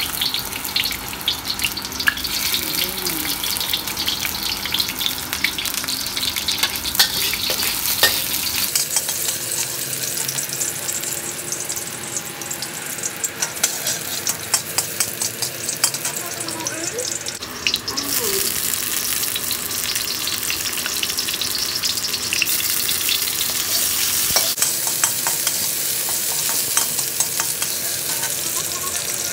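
Sliced garlic and onion sizzling in hot oil in a wok, with a steady hiss broken by many short clicks of a metal spatula scraping and tapping the pan as it is stirred.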